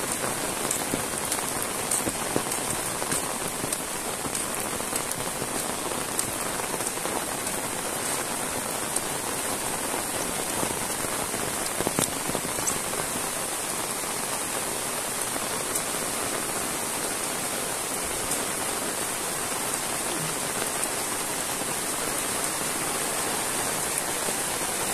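Heavy rain pouring steadily: a dense, even hiss with scattered sharp taps of nearby drops.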